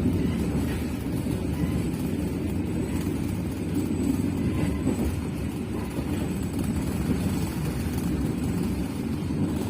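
Passenger train running along the line: a steady low rumble of wheels on rails.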